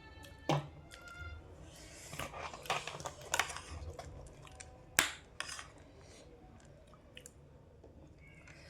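Close-up chewing and crunching of jhal muri, spiced puffed rice, in irregular crunches, with one sharp loud click about five seconds in.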